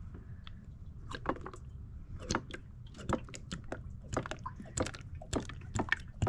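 Motor oil glugging out of a bottle into the engine's oil filler: a string of irregular gulps that begin about a second in and come faster toward the end as the bottle is poured quickly.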